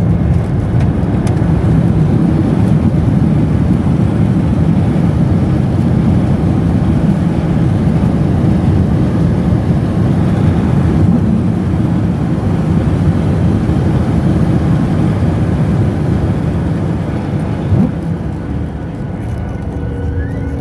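Jet airliner cabin noise during the landing rollout: a loud, steady low rumble of engines and runway, easing a little near the end.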